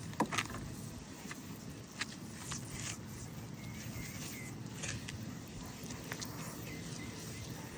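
Scattered light clicks and knocks from handling work on an air-conditioning unit, over a steady low rumble.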